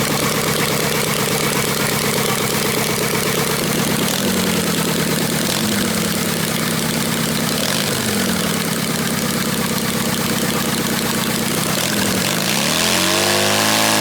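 Motorcycle engine running steadily, with a few brief dips in pitch, then revving up and back down near the end.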